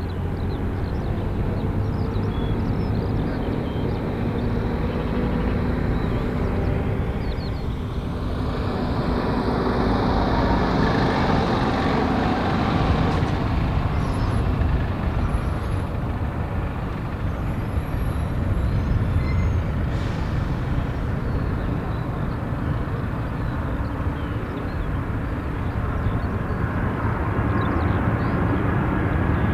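Lockheed C-5M Super Galaxy's four turbofan engines running, a steady loud jet noise with a thin high whine. A tone falls in pitch about eight to twelve seconds in.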